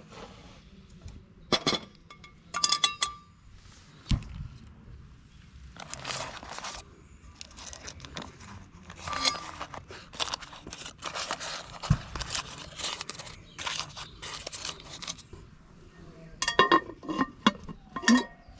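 Camp-cooking handling sounds: metal utensils or cookware clinking with a brief ring, about 1.5 and 3 s in and several times near the end. In between there is a long stretch of rustling and crinkling, like wrapping or packaging being handled, with a couple of dull knocks.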